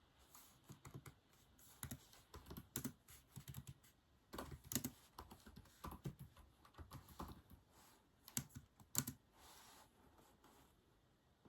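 Typing on a keyboard: keys clicking in irregular runs with short pauses, a few taps standing out louder, the typing tailing off near the end.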